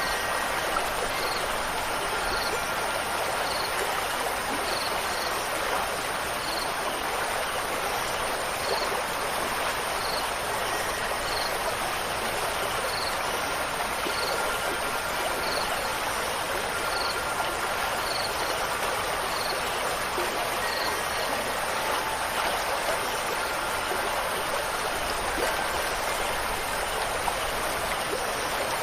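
Steady rushing of a flowing stream, with a faint high chirp repeating about once a second that stops about three-quarters of the way through.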